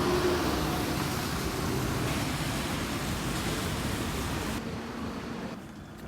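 Steady rumble and hiss of a moving vehicle, thinning and getting quieter near the end.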